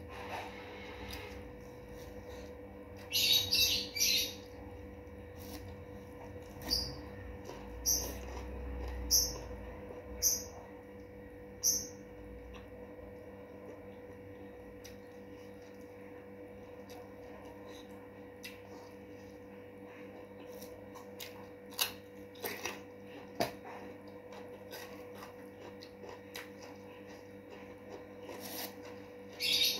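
A bird calling: a loud flurry of high chirps a few seconds in, then five single chirps about a second apart, and another burst near the end. In between come a few soft clicks and taps over a steady low hum.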